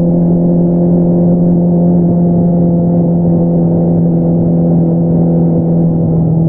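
2022 Honda CBR650R's inline-four engine through an Akrapovič single-outlet exhaust, running at steady revs under constant throttle, with an even, unchanging pitch.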